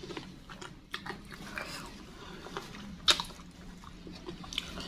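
Mouth sounds of eating chicken feet: soft wet chewing and sucking with scattered small clicks and smacks, one sharper click about three seconds in.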